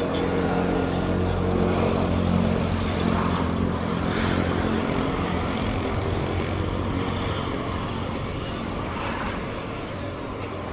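A motor vehicle's engine running close by with a steady low hum and street traffic noise, loudest in the first few seconds and slowly fading away.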